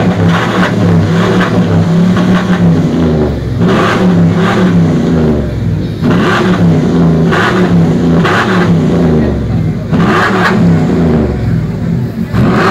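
A car engine and exhaust revved hard again and again while the car stands still. Each rev climbs and falls back, roughly once a second or so.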